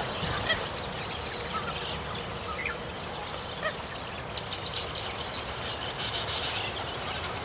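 Wild birds calling: scattered short chirps, then a denser stretch of high-pitched chattering in the second half, over a steady low background noise.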